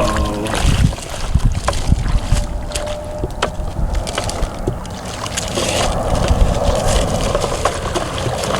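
Muddy water sloshing and splashing as a toy truck is run through a puddle, with wind buffeting the microphone and a few light sharp knocks.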